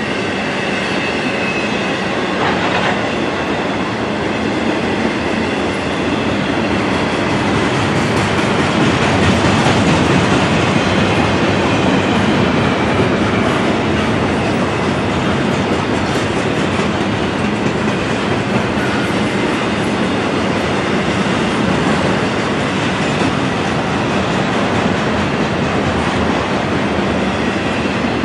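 Double-stack intermodal freight cars rolling past on steel rails: a steady, loud rolling noise of wheels on track that swells slightly partway through. A faint high wheel squeal runs through the first few seconds.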